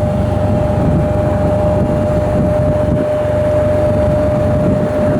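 Steady engine rumble with a constant high whine over it, holding even throughout.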